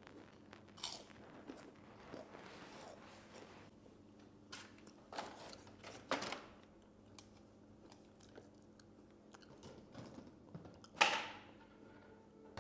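Close-up chewing with a few sharp crunches, the loudest about eleven seconds in: a person biting and chewing crisp rice papad and other thali food.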